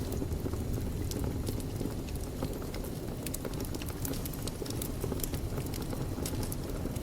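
Wood fire in a fireplace burning with a steady low rumble, many small crackles and pops scattered irregularly throughout.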